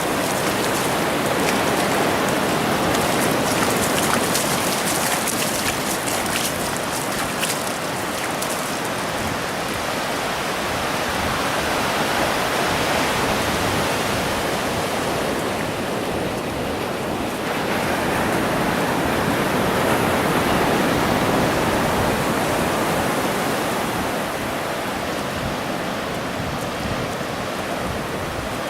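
Ocean surf washing onto a beach: a steady rush of waves that slowly swells and eases.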